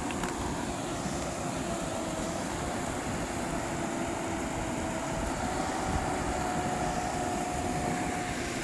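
A steady engine drone over a low rumbling noise, its hum stepping up slightly in pitch about halfway through.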